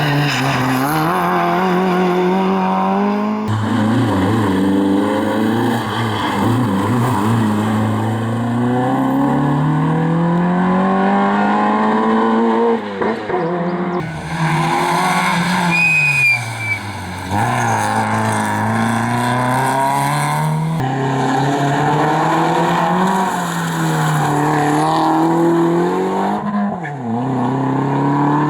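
Rally cars at full attack, engines climbing in pitch through the gears and dropping sharply on lift-off and braking, in several short cuts. A brief tyre squeal about halfway through.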